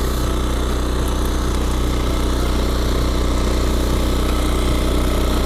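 Yanmar A-10V walk-behind tiller's engine running steadily while its one-metre-wide rotary tiller works the soil in third gear.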